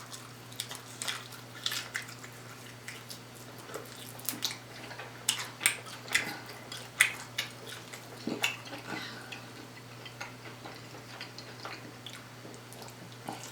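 Close-up eating sounds: chewing with irregular wet mouth clicks and smacks, over a faint steady hum.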